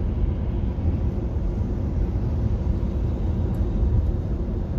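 Steady low road and tyre rumble from a 2021 Nissan Leaf electric car driving, heard from inside the cabin.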